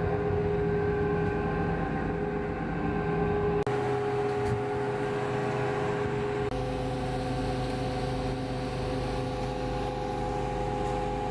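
A vehicle engine drones steadily with a constant hum. The sound changes abruptly twice, about four and six and a half seconds in.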